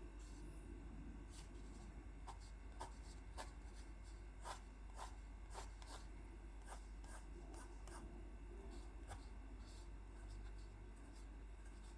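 Faint tapping and scratching of a drawing tool on paper as small circles are drawn: a string of short, irregular clicks, about one or two a second.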